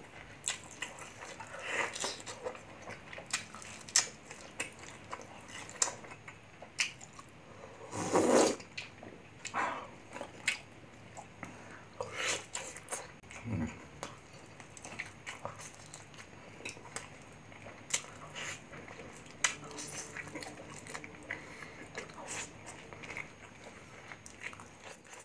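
Eating sounds of a man biting into grilled chicken and eating rice by hand: chewing, lip smacks and many short sharp clicks, with a few louder bites or mouth sounds, the biggest about eight seconds in.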